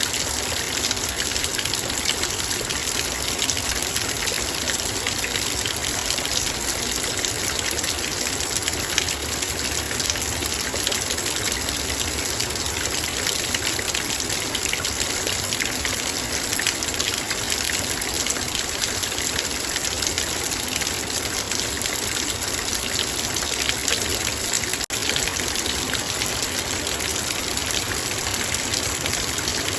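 Heavy rain falling on and around a metal bowl: a dense, steady patter of drops, with one momentary break in the sound about five seconds before the end.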